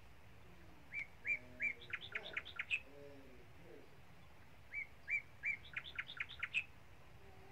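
A bird singing two similar phrases: each opens with three clear, evenly spaced notes, then runs into a quick series of sharper, higher notes.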